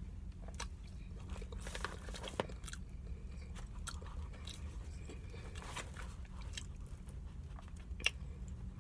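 A person chewing rotisserie chicken close to the microphone, with many small wet mouth clicks and smacks and a sharper click about two and a half seconds in and again near the end. A steady low hum runs underneath.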